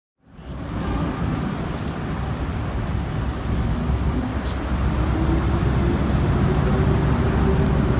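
Steady, dense, low rumbling background noise that fades in from silence right at the start.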